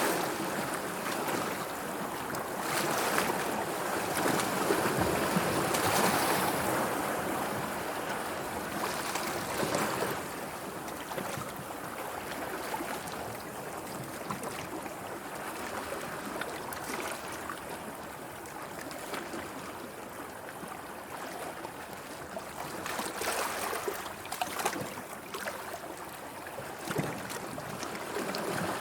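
Sea water washing and lapping in waves, swelling louder in the first few seconds and then settling, with a few brief splashes near the end.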